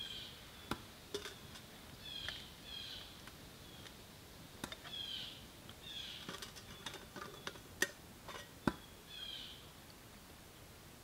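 A bird calling again and again in short downward-sliding chirps, every second or two, with a few sharp clicks and knocks of camp cookware being handled, two of them louder late on.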